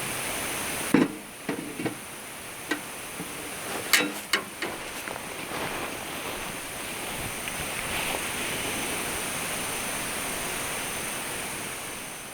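Steady rushing outdoor noise with a handful of sharp knocks and clicks in the first five seconds, fading out near the end.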